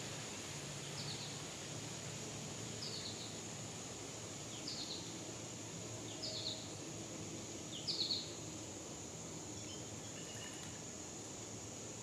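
A songbird calling: a short, sharp, falling phrase repeated about every two seconds, growing louder, with fainter notes near the end. Under it runs a steady high drone of insects.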